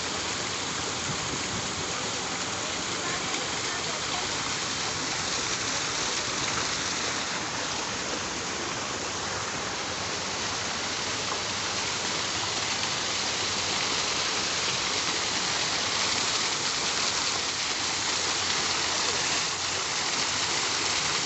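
Steady rushing water, an even hiss with no breaks, growing slightly louder in the second half.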